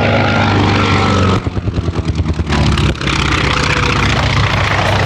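Grumman F4F Wildcat's radial engine running steadily. About a second and a half in, it breaks into a rapid pulsing for about a second and a half, then runs steadily again.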